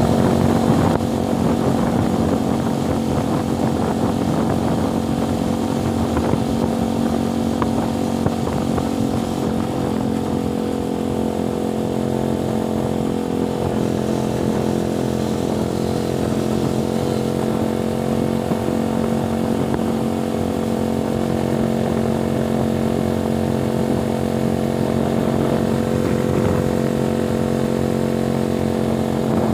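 Motorcycle engine running at steady revs, one constant engine note held throughout.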